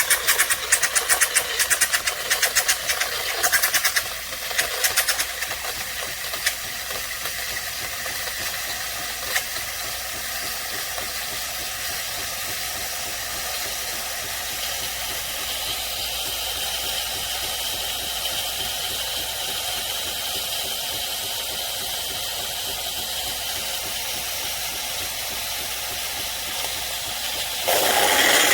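Philips Series 3300 fully automatic espresso machine running through a drink cycle: rapid rattling for the first few seconds, then a steady hissing hum, which turns suddenly louder just before the end.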